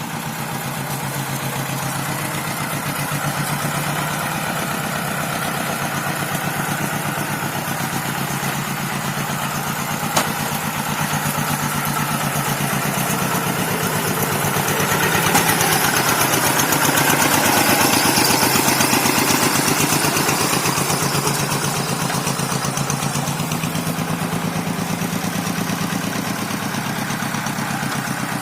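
Rice-paddy tractor's engine running steadily under load, growing louder for several seconds around the middle before easing back.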